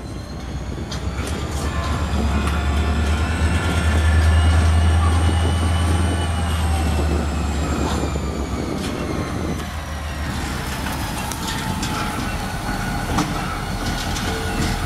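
Freight train passing close by: the diesel locomotives' heavy low engine drone peaks about four to six seconds in, with a thin high whine that rises and then falls in pitch. Then the wagons roll past with scattered clicks from the wheels.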